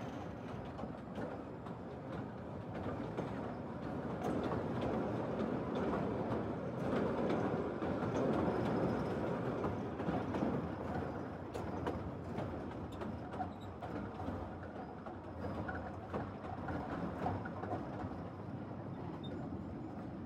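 Kurobe Gorge Railway narrow-gauge train running on the rails: a steady rumble with scattered clicks from the wheels, growing louder near the middle and then easing.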